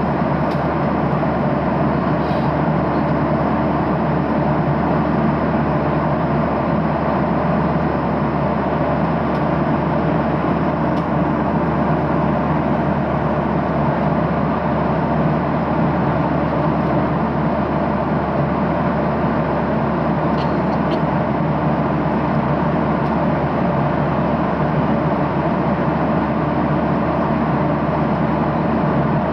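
Steady cabin drone of a Boeing 737-800 in cruise, airflow and CFM56 engines, with a few faint clicks.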